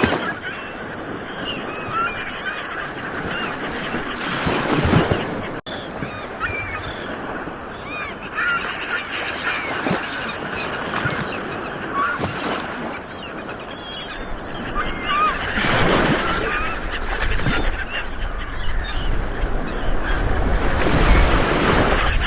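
Ocean waves washing onto a shore, swelling in three big surges, with a flock of birds calling over them in many short honking calls.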